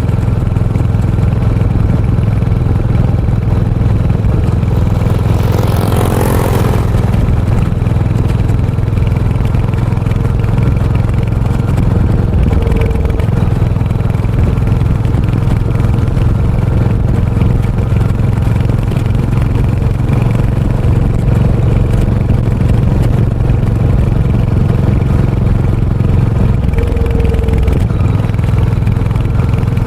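Royal Enfield Hunter 350's single-cylinder engine running steadily through its exhaust while riding. A brief rush of noise with a falling pitch passes about six seconds in, and the engine note shifts lower near the end.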